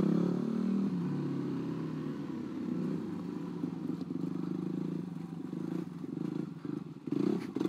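Single-cylinder supermoto motorcycle engine heard from the rider's own bike. It drops in pitch over the first second as the bike slows, then runs steadily at low revs, picking up again near the end.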